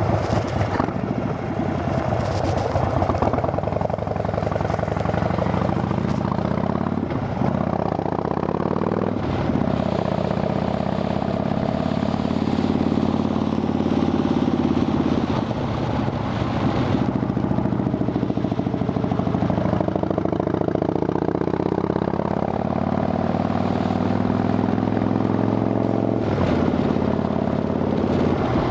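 Harley-Davidson Dyna Fat Bob's V-twin engine running through Vance & Hines Shortshots exhaust with quiet baffles, mostly steady, with the revs rising and falling a few times.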